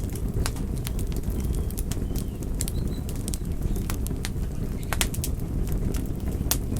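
Wood fire crackling: sharp pops and snaps at irregular intervals over a steady low rumble of burning.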